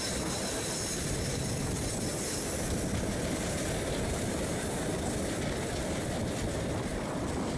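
Passenger train running on the rails: a steady rumble and rush of wheel and track noise, with no distinct clicks.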